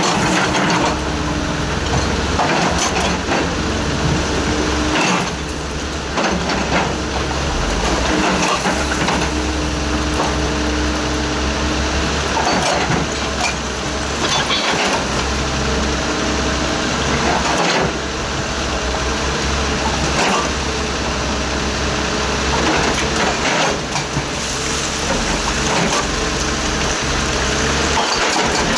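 Excavator's diesel engine running steadily under load, with a held hydraulic whine on and off and sharp knocks and clatters every few seconds as the machine works.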